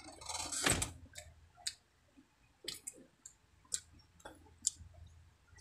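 Close-miked chewing: a louder, crunchy noise in the first second, then scattered wet mouth clicks and smacks, a few a second.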